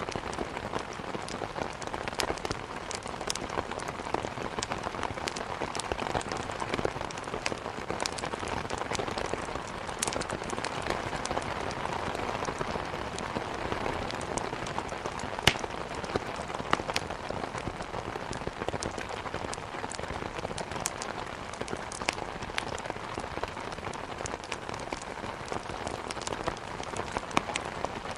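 Steady rain hitting a window, mixed with the scattered crackles and pops of burning firewood; one sharper pop comes about halfway through.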